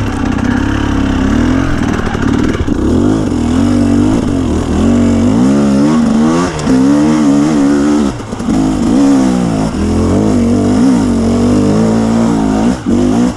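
2017 KTM 250 EXC two-stroke dirt bike engine under constant throttle changes, its pitch rising and falling every second or so as it is blipped and rolled off. Around eight seconds in and again near the end the engine briefly drops off.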